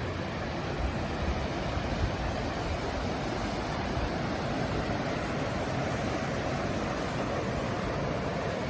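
Rushing creek water, a steady even noise.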